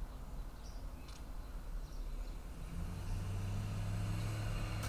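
Faint low rumble, with a steady low hum setting in about three seconds in.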